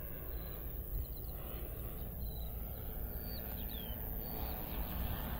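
Small birds chirping, with short falling notes every second or so, over a steady low outdoor rumble.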